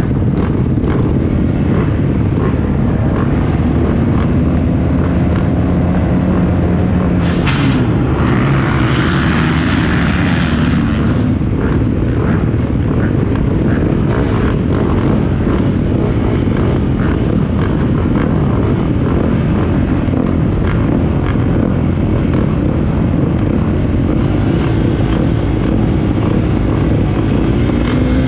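Several motocross dirt bikes running together, their engines revving up and down as they race, with overlapping engine notes that rise and fall.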